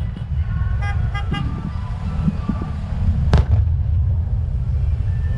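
Fireworks display: a continuous low rumble of bursts, with one sharp crack a little after three seconds in. About a second in, a few quick short horn toots sound over it.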